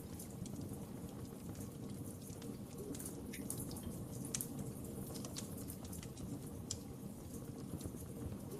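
Wood fire crackling: a steady low rumble of burning with scattered sharp pops and snaps at irregular moments.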